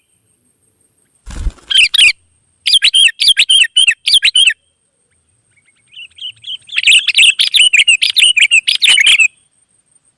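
Sooty-headed bulbul (kutilang) singing loudly in two bouts of quick, bubbly chattering phrases: the first starts about a second and a half in, and the second, longer one starts about halfway through.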